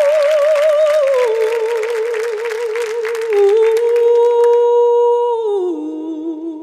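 A woman singing an unaccompanied, wordless vocalise in long held notes with a wide vibrato. The notes step down in pitch, with a last drop to a lower note about five and a half seconds in. Applause runs under the first four seconds or so, then dies away.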